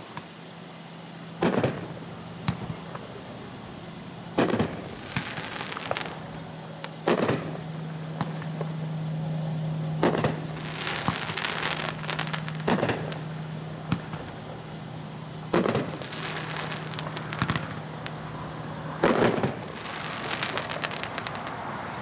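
A 9-shot 350-gram consumer fireworks cake (American Soldier) firing: about seven heavy shell-burst booms spaced roughly three seconds apart, several followed by crackling. A steady low hum runs underneath until near the end.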